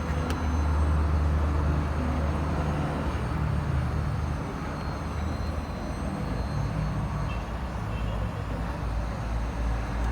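A vehicle engine running steadily with a low rumble, heaviest in the first few seconds, and a single click just after the start.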